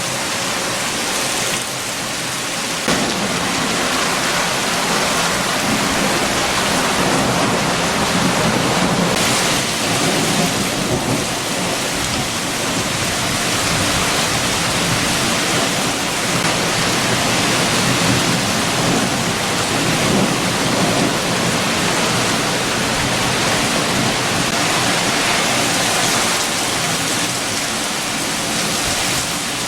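Heavy rain hissing steadily with strong wind, the wind swelling and easing in gusts.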